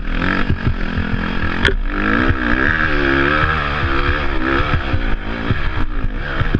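Dirt bike engine revving up and down as it is ridden over rough ground, with frequent knocks and rattles and one sharp click under two seconds in.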